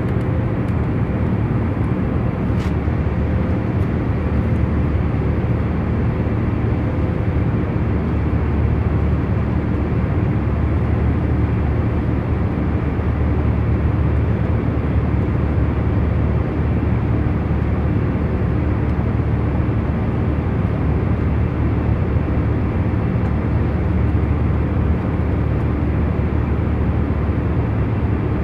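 Airliner cabin noise in cruise flight: a steady, even rumble of engines and airflow, heaviest in the low end, with a few faint steady hums in it.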